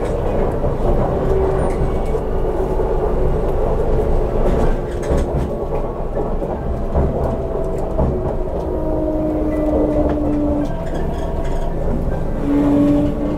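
MTR CNR Changchun C-train EMU motor car running between stations, heard from inside: a steady rumble of wheels on rail, with a few thin steady tones coming and going over it.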